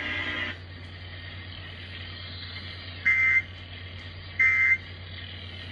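Three short, identical bursts of Emergency Alert System (SAME) digital data, each a harsh, warbling electronic blip about a second apart. This is the end-of-message code that closes a weather-radio alert. A steady low hum runs underneath.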